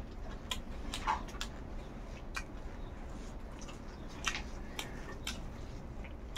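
Close-miked eating sounds: a person chewing, with a handful of short wet mouth clicks and smacks at irregular moments.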